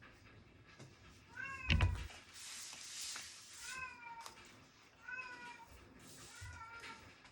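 A house cat meowing repeatedly: four short meows about a second and a half apart, the first rising in pitch. A low thump lands with the first meow, and there are two brief stretches of rustling hiss.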